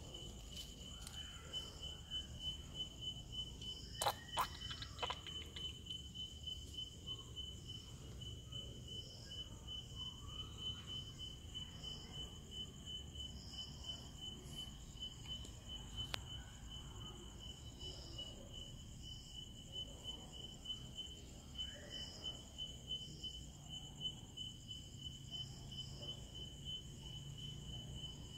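Steady, high-pitched insect chirping that pulses rapidly and without a break, with a few sharp clicks about four seconds in.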